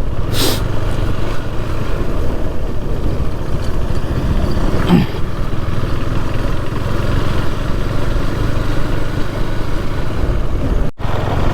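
Motorcycle engine running while the bike is ridden along a rough, broken road, a steady loud rumble throughout. The sound drops out briefly near the end.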